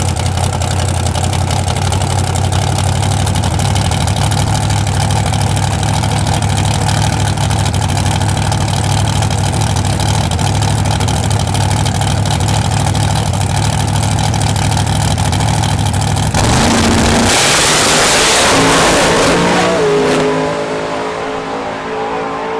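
Drag race truck engines running steadily at the line, then about sixteen seconds in a sudden loud full-throttle launch. The revs climb in steps as the trucks pull away and the sound fades.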